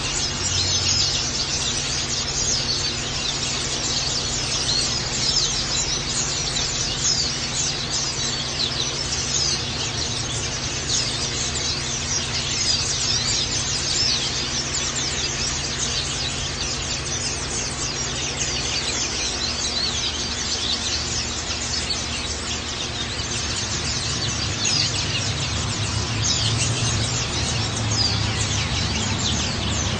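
A flock of white-eyes (pleci) chirping and twittering nonstop, many high-pitched calls overlapping in quick succession, over a low steady hum.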